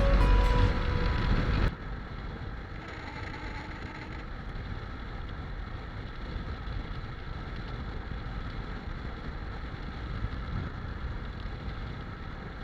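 Mondial RX1 Evo motorcycle running steadily on the road, with wind on the microphone, after background music that cuts off suddenly about two seconds in.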